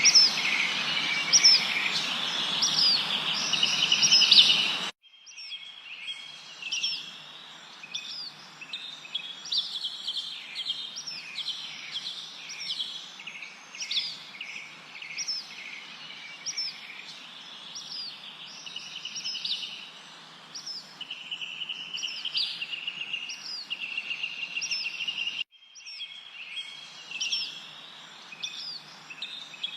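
A chorus of songbirds chirping, whistling and trilling over a soft background hiss. The sound is louder for the first few seconds, then cuts suddenly to a quieter chorus, with another abrupt break near the end.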